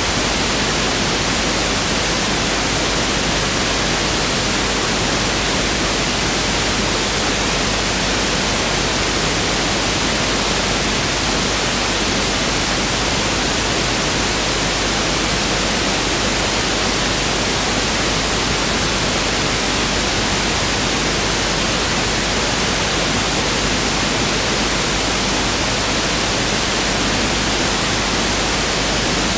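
Pink noise (1/f noise) test signal: a steady, unchanging hiss with equal energy per octave.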